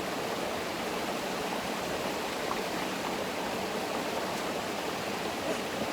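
Rushing water of a stream, a steady, even rush with no change in level.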